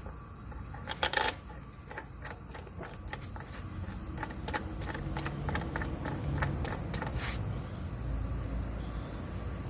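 Car engine running with a low hum, under a loud cluster of sharp clicks about a second in and then irregular sharp ticking for several seconds. This is the engine noise the owner is recording.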